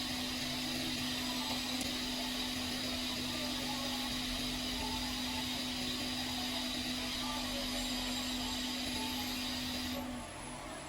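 A small electric blower running steadily with a hum and a hiss, then switched off about ten seconds in.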